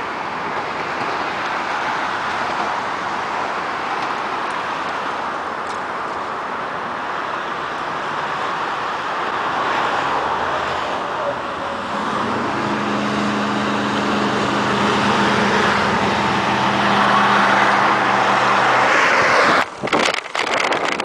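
Road traffic noise: a steady rush of tyres on the road, with a vehicle engine's steady hum over it for several seconds past the halfway point. A few sharp knocks and bumps come near the end.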